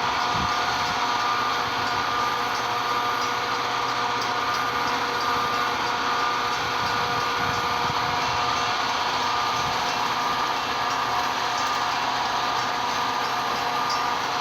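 Metra commuter train running, a steady even noise with several high steady tones laid over it.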